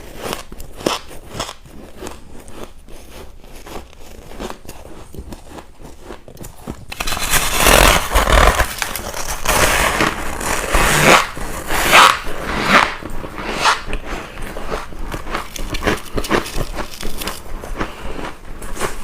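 Ice being bitten and chewed close to the microphone: irregular sharp cracks and crunches, light for the first several seconds, then loud, dense crunching from about seven seconds in that eases off somewhat after about thirteen seconds.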